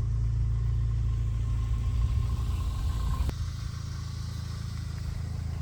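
A car driving, with a steady low engine and road rumble that drops a little about three seconds in.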